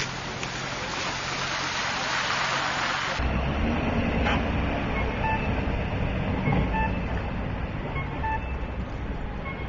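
Steady noise with a low hum, cut off about three seconds in by vehicle engines running low, with short electronic beeps at several pitches sounding now and then.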